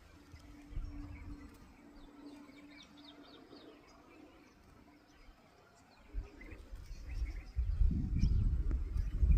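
Small birds chirping faintly and intermittently, with a steady low hum for the first few seconds. Near the end a low rumbling noise comes up and becomes the loudest sound.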